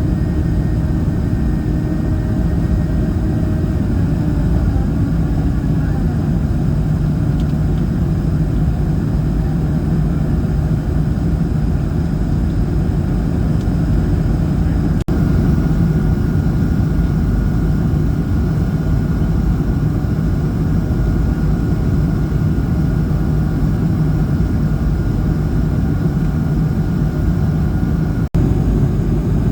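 Steady drone of an Airbus A220-300's Pratt & Whitney PW1500G geared turbofans and airflow heard inside the cabin in flight, low and even with a thin steady whine over it. It breaks briefly twice, about halfway and near the end.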